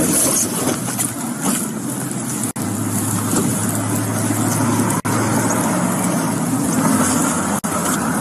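Steady car engine and road noise with a low hum, broken by three brief dropouts in the audio.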